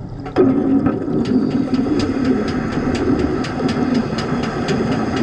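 Underwater wet-welding arc struck about half a second in and then burning steadily: a steady buzz with evenly spaced ticks about three times a second.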